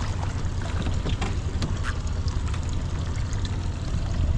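Water splashing and lapping against a small boat's hull, with scattered small clicks and knocks over a steady low rumble of wind on the microphone.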